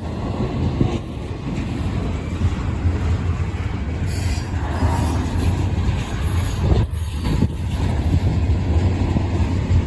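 CSX intermodal freight train rolling past slowly: a steady rumble of wheels on the rails.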